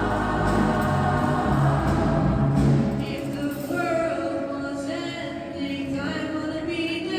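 A choir singing held notes, the lower voices dropping away about three seconds in as higher voices carry on.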